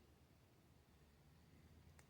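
Near silence: faint steady low room hum, with one small click near the end.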